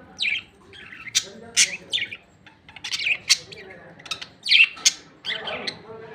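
Pet lovebirds giving short, shrill chirps and squawks in quick succession, several calls a second at times.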